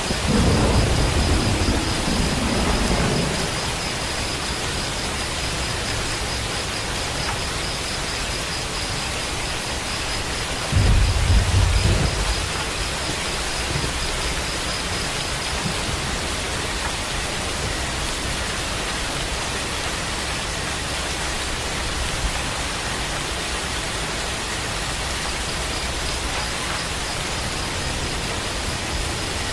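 Steady rain falling, a continuous even hiss, with two low rolls of thunder: one at the start lasting about three seconds and a shorter one about eleven seconds in.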